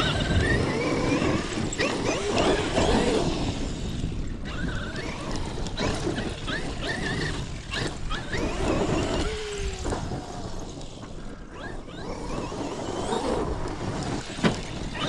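Electric RC monster truck running over a rough dirt track, its motor whining up and down in pitch as the throttle is worked, with tires scrabbling and the chassis knocking on landings. One sharp impact stands out near the end.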